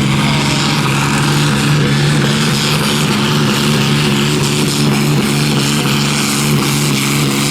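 Competition pulling tractor's engine running hard at high, steady revs under load during a pull.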